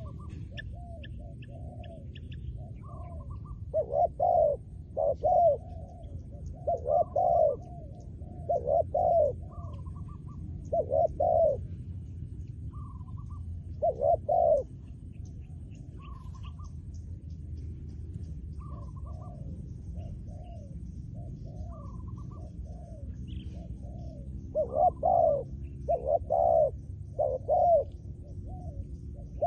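Spotted doves cooing: a close bird gives repeated groups of a few deep coos every couple of seconds, with fainter, higher coos in between. This is the calling of a trained decoy dove used to lure wild doves. Small birds chirp faintly in the background.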